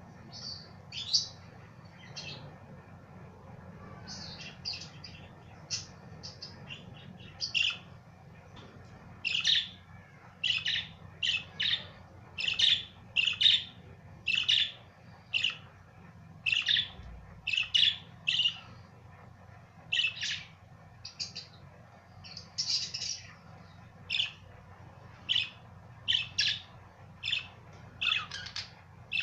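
Budgerigars chirping: a long run of short, sharp chirps, sparse at first and coming thick and fast from about nine seconds in.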